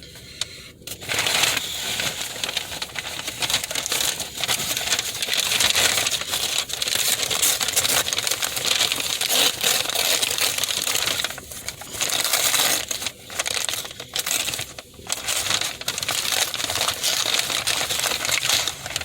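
Paper fast-food packaging crinkling and rustling as it is handled and opened, in a dense crackle of small clicks with a few short pauses.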